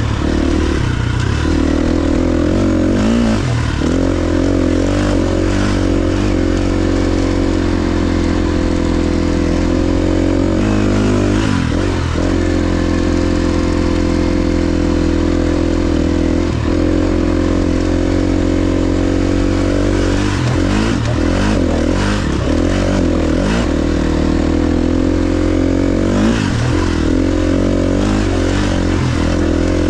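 KTM XC-F 350's single-cylinder four-stroke engine running under way, mostly holding a steady pitch. The engine note dips and picks up again a little over a third of the way in, and several times through the last third, as the throttle comes off and back on.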